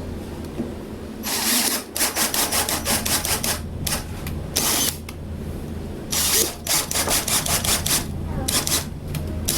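Power drill boring into the wooden beam in four bursts of a few seconds each, with a chattering cut in each burst and a steady low hum between them.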